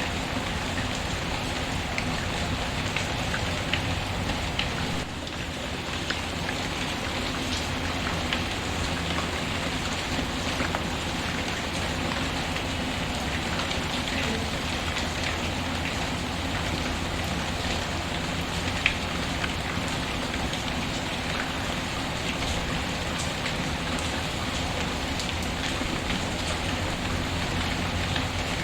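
Steady rain falling, with scattered sharp ticks through it and a brief dip in level about five seconds in.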